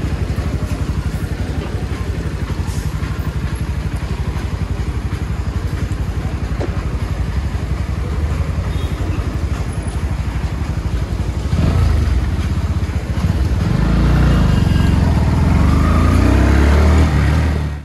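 Motorcycle engine running steadily, then revving up and growing louder in the last few seconds.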